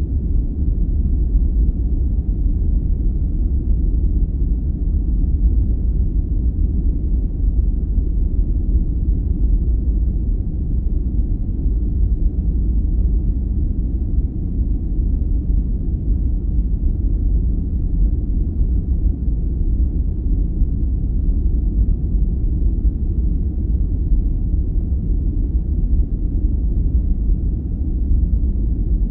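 Steady, unchanging sleep-aid noise, deep and rumbling, with no hiss or high sound in it.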